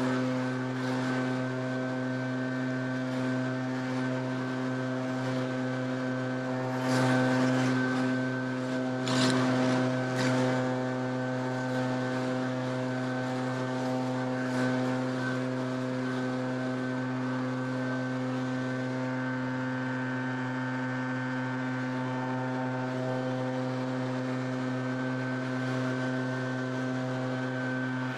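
Small engine running steadily at a constant high speed, with a few brief surges of rushing noise about a third of the way in.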